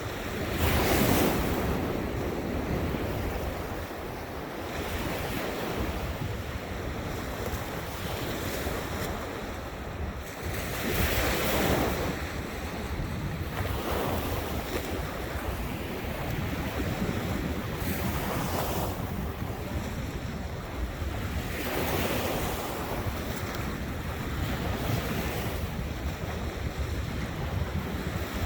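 Ocean surf washing onto a beach, with waves swelling and breaking every few seconds, the loudest about a second in and around eleven seconds in. Wind buffets the microphone with a steady low rumble underneath.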